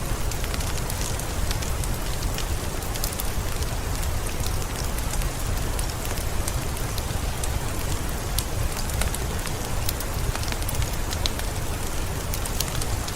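Heavy rain falling steadily: a dense, even patter with many sharp individual drop hits over a low rumble.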